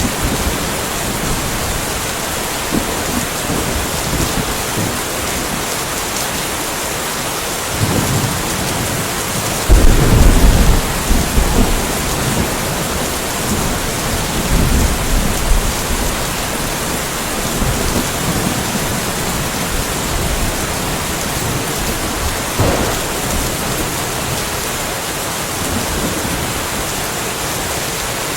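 Steady rain with rolling thunder. The loudest clap comes about ten seconds in and rumbles away over a few seconds, with softer distant rumbles before and after.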